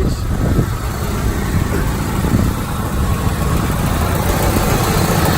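Acura Integra's B20 four-cylinder engine idling steadily with an even low hum.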